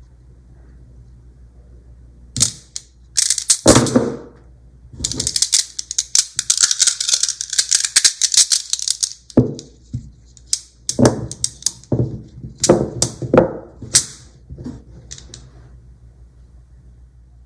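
Small neodymium magnet balls snapping together with sharp clicks and clacks. About five seconds in, a dense rattling clatter of many balls knocking together lasts around four seconds, followed by more single clicks.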